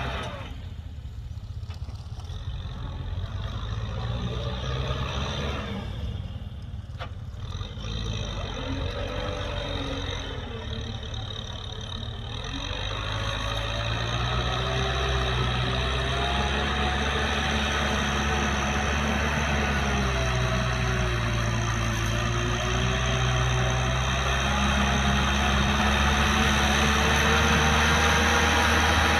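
Kubota M6040SU tractor's four-cylinder diesel engine running steadily, growing louder about halfway through and holding there.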